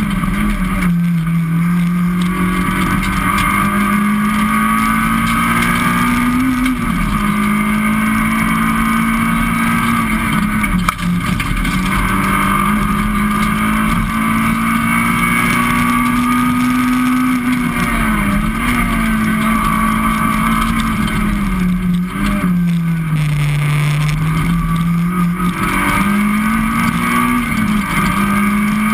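Citroën Saxo VTS rally car's four-cylinder engine, heard from inside the cabin, driven hard at high revs. The note climbs steadily, falls sharply at about 7 and 18 seconds in, then dips lower for a couple of seconds a little past two-thirds of the way before climbing again.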